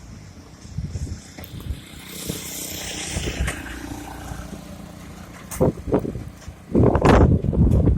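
Street traffic in the rain: a vehicle passes with a hiss of tyres on the wet road a couple of seconds in. Loud, rough rumbling bursts follow near the end.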